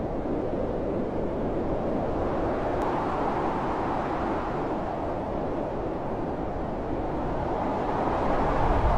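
Blizzard wind: a steady rushing noise that swells and eases in gusts, growing louder near the end.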